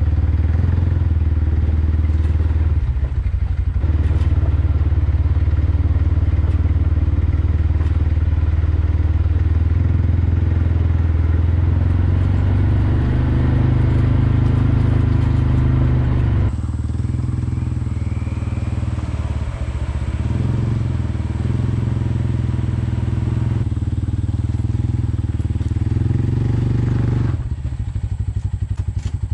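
Gasoline engine running steadily, its sound changing slightly about halfway through and dropping a little near the end.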